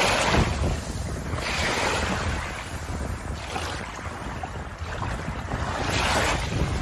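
Ocean waves washing on a shore: surges of hissing wash about every two seconds over a steady low rumble.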